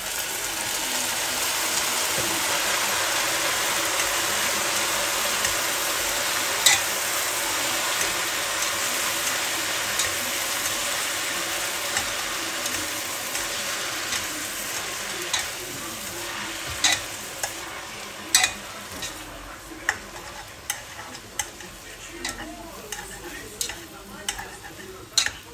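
Food sizzling in hot oil in a pan: a steady hiss that slowly dies down over the second half. Sharp taps, as of a utensil stirring against the pan, are scattered through it and become more frequent toward the end.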